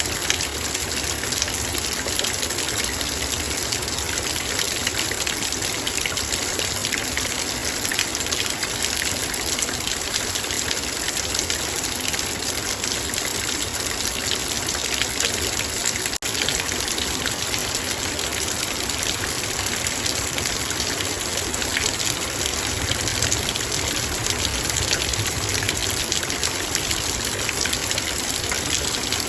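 Heavy rain falling on a metal bowl: a dense, steady hiss of rain with many fine ticks of drops striking the metal.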